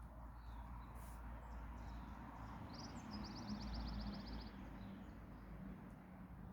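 Outdoor ambience with a steady low rumble; about three seconds in a bird gives a rapid high trill lasting about a second and a half.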